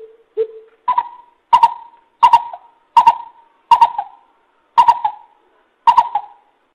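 Coucal (bubut) calling a series of about nine short, hollow hoots. After the first two notes the pitch steps up, and the gaps between notes slowly lengthen.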